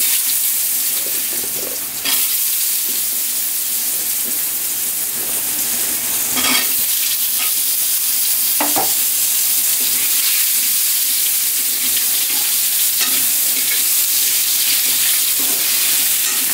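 Potato pieces sizzling loudly as they fry in hot oil in a steel karai. A metal spatula scrapes and clinks against the pan a few times as they are stirred.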